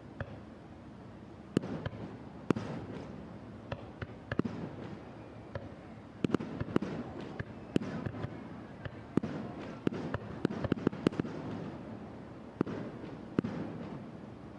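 Aerial fireworks bursting: a volley of sharp bangs and crackles over a low rumble, sparse at first, coming thick and fast in the middle, then thinning out near the end.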